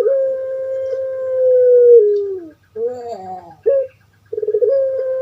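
Puter pelung dove (Streptopelia risoria) singing its long coo. A long held note of about two and a half seconds drops in pitch at its end. A new phrase follows with wavering notes, a short note, a quick stuttering roll, and another long held note.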